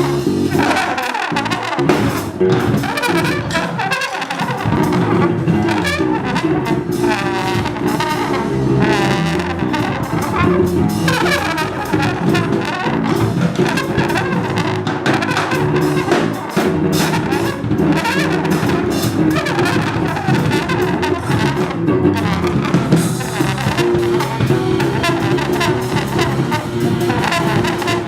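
Free jazz quartet playing live: tenor saxophone and trombone play dense, wavering lines over double bass and busy drums and cymbals.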